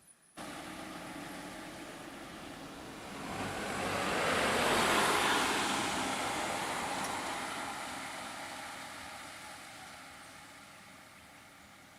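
A road vehicle passing by: its noise starts abruptly, grows to its loudest about five seconds in, then slowly fades away.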